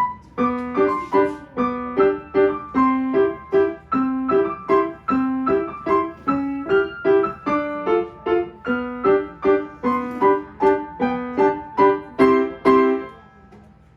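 Piano played at an even pace, about two notes a second, with a simple melody over repeated lower notes. It ends on a held final chord near the end, then stops.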